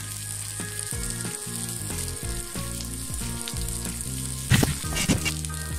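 Garlic, onion and chillies sizzling in mustard oil in a wok over medium heat, stirred with a silicone spatula. A few louder sharp scrapes and knocks of the spatula against the pan come a little after four seconds in.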